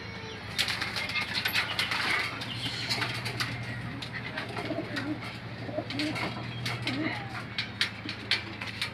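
A man eating boiled okra pods close to the microphone: many sharp mouth clicks and chewing sounds, with a steady low hum and faint short calls behind them.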